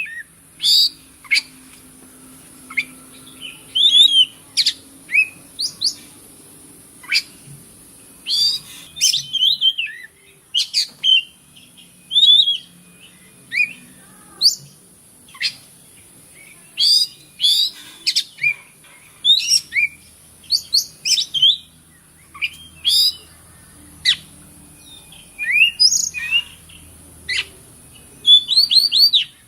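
Oriental magpie-robin (kacer) singing: a long run of short, loud, varied whistles, sharp chirps and quick sweeping notes in irregular phrases, over a steady high hiss.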